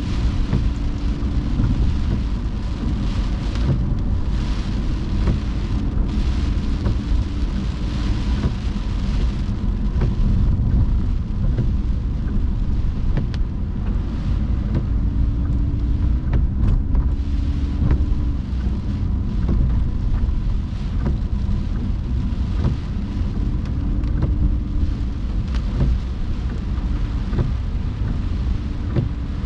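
Car driving in the rain: a steady low rumble of the car on a wet road under an even hiss of rain and tyre spray.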